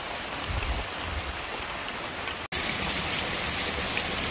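Heavy rain falling steadily. It cuts off abruptly about two and a half seconds in and resumes a little louder.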